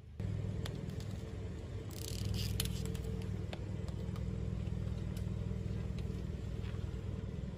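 Car engine running low and steady while its tyres roll over objects: scattered sharp crackles and a brief crunching burst about two seconds in.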